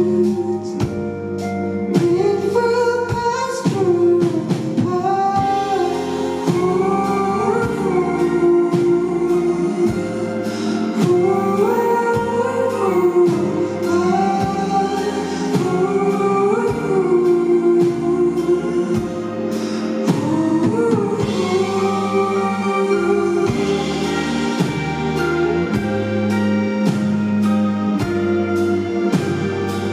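Live band playing a song, with a sung vocal line over bass and a drum kit keeping a steady beat.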